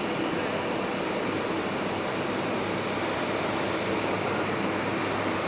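Steady, even rush of jet airliner noise with a faint low hum underneath.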